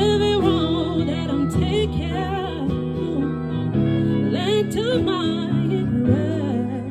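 A singer sings a slow ballad with wavering vibrato over sustained instrumental accompaniment.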